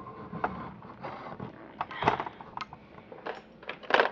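Plastic clicks and clacks from a modded Nerf Recon CS-6 spring-powered dart blaster being handled, primed and fired, about seven sharp knocks spread irregularly, with the loudest clack near the end.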